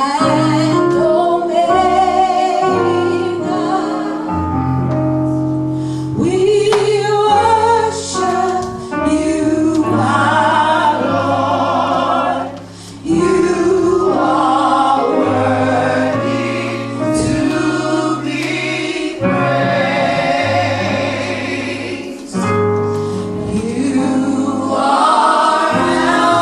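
Gospel choir singing a praise song with instrumental backing, bass notes changing under the voices.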